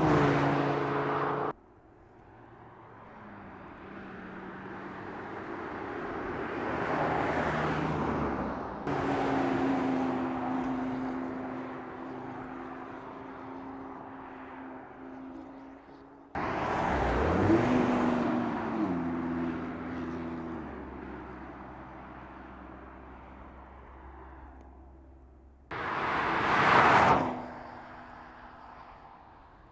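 Audi TT RS Roadster's turbocharged five-cylinder engine in a series of drive-by passes that cut in and out: the engine note swells and fades as the car approaches and goes by. Near the middle the revs climb steeply under hard acceleration, then drop back as it shifts up.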